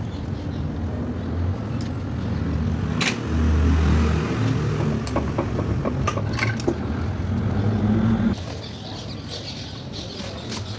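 Honda Civic's engine running, louder for about a second three seconds in. Its low hum drops off suddenly about eight seconds in, with a few clicks and knocks along the way.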